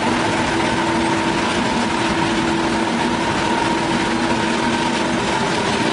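Engine-driven wood saw running steadily at an even pitch, with no change in speed.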